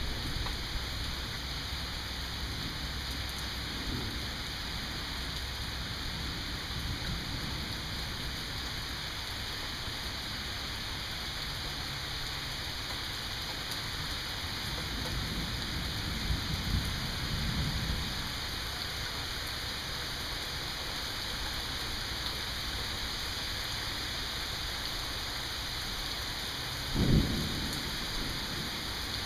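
Steady rain falling with a constant hiss, and low rolls of distant thunder rumbling around the middle. Near the end comes one short, loud, low thump.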